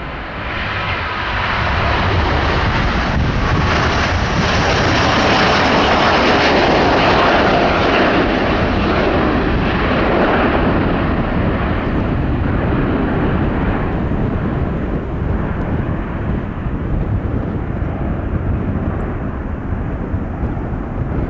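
Airbus A330-900neo's twin Rolls-Royce Trent 7000 turbofans at takeoff thrust on departure: a broad jet roar that swells over the first two seconds, is loudest around six to eight seconds in, then slowly eases.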